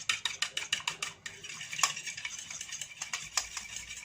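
Egg with vanilla being beaten in a bowl, the utensil clicking rapidly and irregularly against the side of the bowl.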